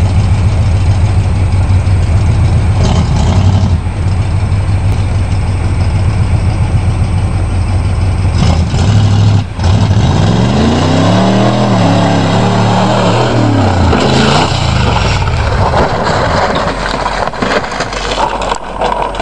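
Pickup truck engine running steadily, then revving up about ten seconds in, holding high and falling back over several seconds. A few sharp knocks come near the end.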